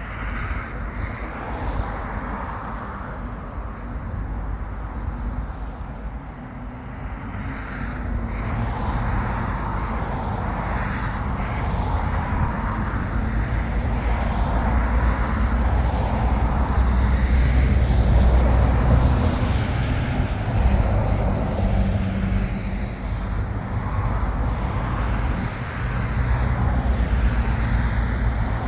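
Low, steady engine rumble from the river cruise ship Sergei Diaghilev as it moves slowly into a canal lock, growing louder toward the middle.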